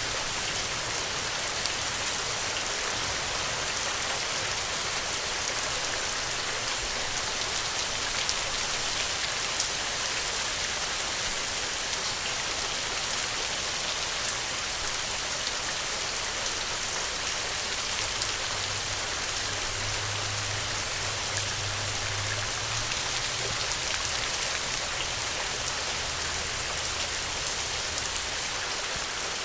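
Steady rain falling, an even hiss with scattered single drops ticking through it. A faint low hum comes and goes underneath, strongest about two-thirds of the way through.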